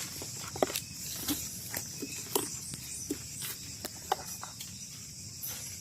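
Footsteps on forest-floor leaf litter, with irregular crunching snaps about once or twice a second, over a steady high-pitched chorus of night insects.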